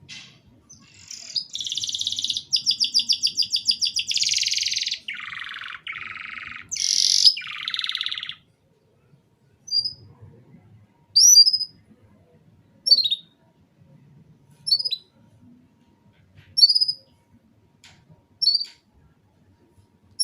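Domestic canary singing: about eight seconds of continuous song with fast trills and rolling phrases, then a string of short single chirps about every two seconds.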